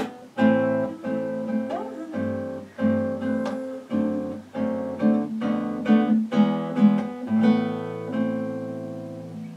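Acoustic guitar strumming chords, about two strums a second, in an instrumental passage of a song. Near the end a last chord is left ringing and fades out.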